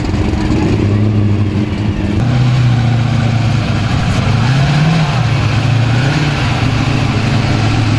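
Car engine running at idle with a low steady note, briefly revved up and back down about four and a half seconds in.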